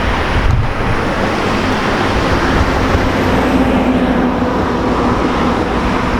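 Steady road-vehicle noise, with a low engine hum coming up about two seconds in.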